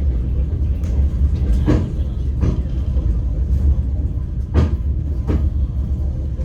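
A moving passenger train's steady low rumble, with the wheels clacking over rail joints in pairs: two clacks about three-quarters of a second apart, then the same pair again about three seconds later.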